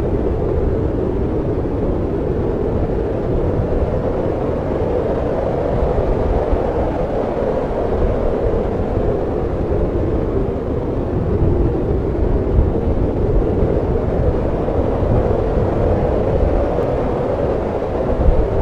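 Snowstorm wind blowing in a steady low rush that swells and eases slowly.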